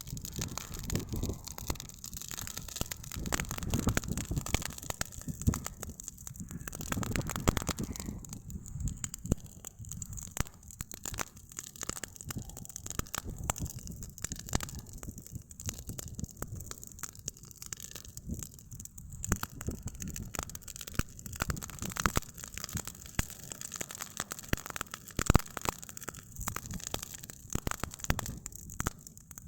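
Campfire burning: the wood crackles and pops in frequent sharp clicks over a steady low rumble.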